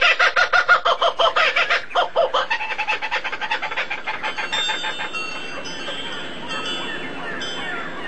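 A bird's rapid clucking chatter, pulsing about eight to ten times a second and fading over the first few seconds, followed by thin ringing chime tones.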